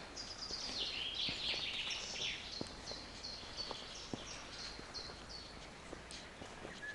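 Songbirds singing: quick, high repeated notes with a falling run about a second in, over a steady outdoor hiss, with a few faint clicks.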